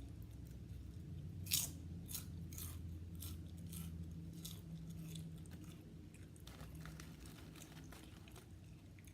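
Potato chips crunching as they are bitten and chewed: a loud first bite about a second and a half in, then a run of crisp crunches about two a second, and another cluster near the end. A low steady hum sits underneath.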